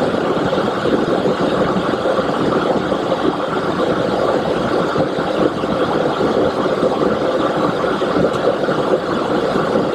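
Steady cockpit noise of a Boeing 727-200 in climb: an even rush of airflow and engine noise that holds level without change.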